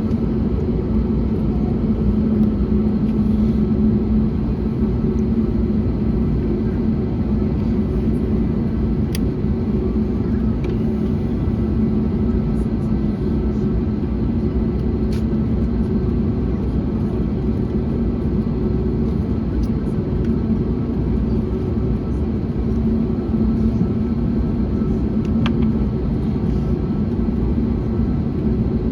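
Steady in-flight cabin drone of an Airbus A321neo: a low rumble of airflow and its Pratt & Whitney geared turbofans, with a constant low hum and no change in thrust.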